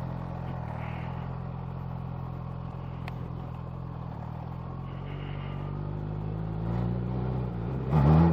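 Kawasaki Z H2's supercharged inline-four engine idling steadily, then the revs climb near the end in a short, loud blip of throttle as the bike sets off.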